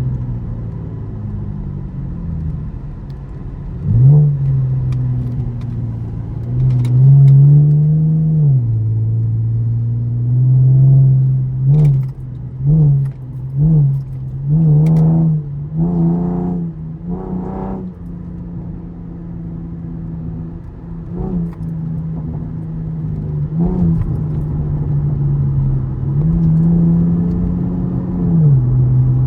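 2013 Camaro LS's 3.6-litre V6 driven hard through a 6-speed manual. The engine note rises and drops repeatedly with gear changes and quick throttle blips. Around the middle comes a run of short, rapid revs.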